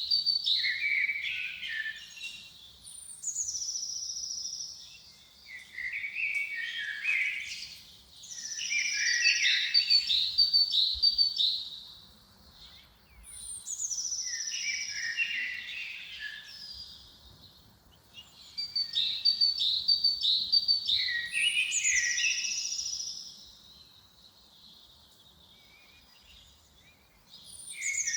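Songbird singing in the forest: repeated phrases of quick high chirps and trills, each a few seconds long, with short pauses between them and a longer quiet gap near the end.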